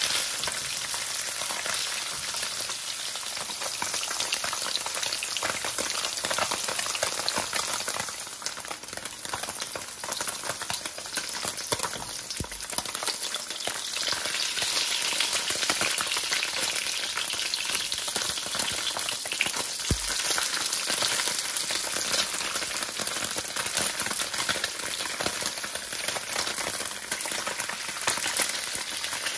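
Slabs of tofu frying in shallow oil in a nonstick pan: a steady crackling sizzle. Two brief low knocks come near the middle and again about two-thirds of the way through.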